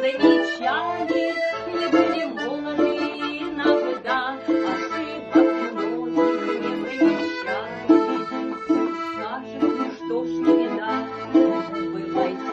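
Accordion playing an instrumental interlude of the song, with held chords and melody over a plucked string accompaniment.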